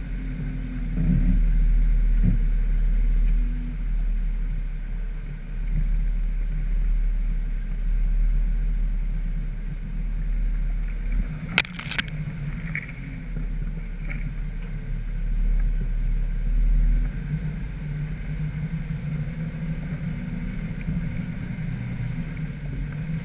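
4x4 Jeep engine running off-road, its pitch rising and falling a little with the throttle, under a heavy low rumble. Two sharp knocks come close together about halfway through.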